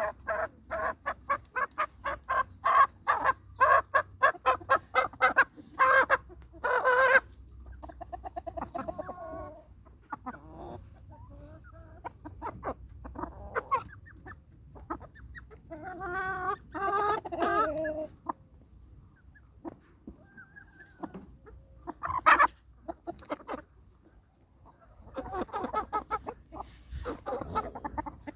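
Chickens clucking: fast runs of short, repeated calls at first, then scattered clucks and brief louder bursts of calling.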